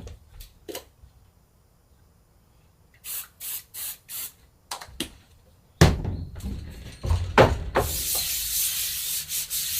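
Screen-making work sounds: a few light clicks, four short bursts of hissing about a second apart, a sharp knock with some clatter, then a steady hiss that starts about two seconds before the end.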